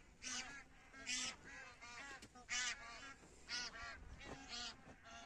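A flock of migratory wild geese honking, calls coming again and again and overlapping one another.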